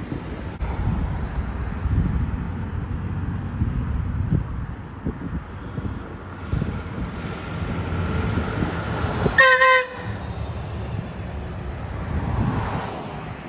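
Heavy trucks rumbling past, then a short, loud blast of an air horn, wavering in pitch, about nine and a half seconds in.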